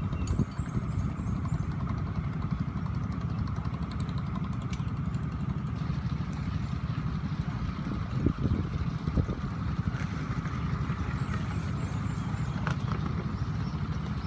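Taxi boat's engine running steadily with a fast, even rumble, a couple of brief knocks over it near the middle.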